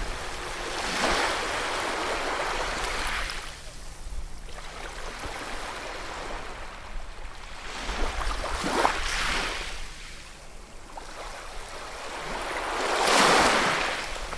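Ocean waves surging in and washing back in three swells, the loudest near the end.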